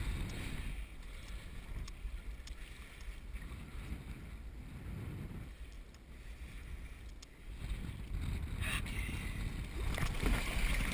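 Wind buffeting the microphone, with water rushing and splashing along a Laser dinghy's hull; the splashing hiss gets louder for the last few seconds.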